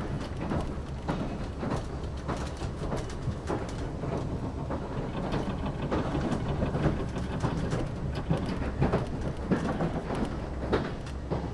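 Running noise heard inside a moving Limited Express Yakumo electric train: a steady low rumble with frequent irregular clicks and rattles from the wheels on the rails and the car body.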